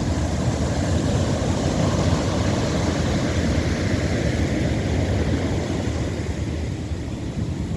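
Wind buffeting the microphone with a low, irregular rumble over the steady rush of ocean surf, swelling slightly and then easing toward the end.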